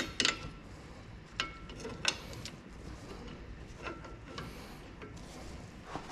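Metal tools and parts clinking and knocking: about six separate sharp strikes, several leaving a short metallic ring, with a low steady hum underneath.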